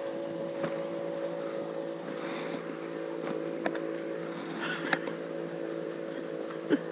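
A boat's motor running with a steady hum, with a few faint clicks.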